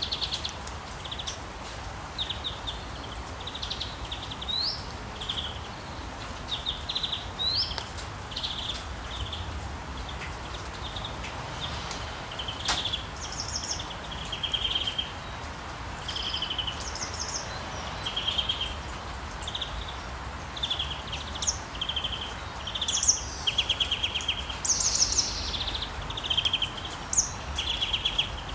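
Birds chirping in many short, repeated calls, a few of them quick rising notes, over a steady background noise with a low rumble. The chirps grow louder and more frequent in the second half.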